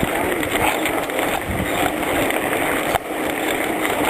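Steady rushing noise of riding a bicycle: wind buffeting the microphone over the hum of tyres rolling along the trail, dipping briefly about three seconds in.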